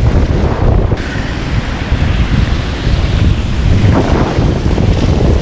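Wind buffeting the microphone of a rider moving along on a beach cruiser bike: a loud, unsteady low rumble and rush.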